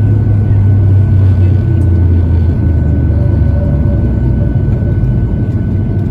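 Boeing 737-800 cabin noise as the airliner slows on the runway after landing: a loud, deep rumble from its CFM56 jet engines and the rolling airframe, slowly falling in pitch and fading as the engines spool down. A faint steady whine sits above it.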